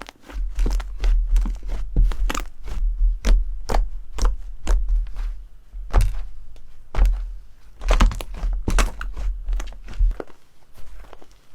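Slime being pressed and squeezed by hand, giving a quick, irregular run of sharp pops and crackles over dull thumps.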